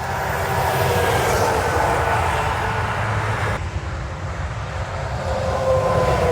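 Semi trucks passing on the interstate: a steady hum of engines and tyres with a whine that slowly falls in pitch as each one goes by. The sound changes abruptly about three and a half seconds in, and another falling whine comes near the end.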